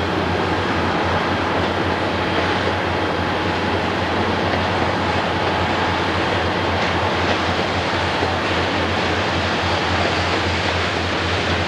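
Conrail freight train's hopper cars rolling past: a steady rumble of steel wheels on rail.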